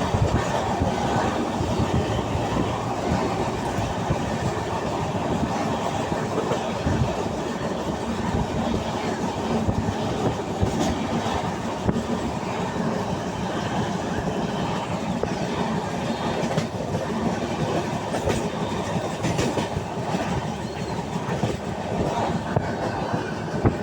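Moving passenger train heard from inside a coach: a steady rumble of wheels on rail with rattling and the clickety-clack of wheels over rail joints.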